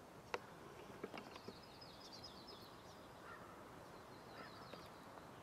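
Faint small bird singing a rapid, high twittering trill in two stretches. A few faint ticks come in the first second and a half.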